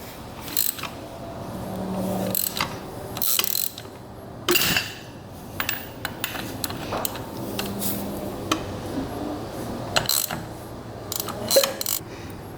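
Ratchet wrench clicking in short bursts, with metal clinks, as the 1985 Yamaha 225DX engine is turned over by hand to bring it to top dead center.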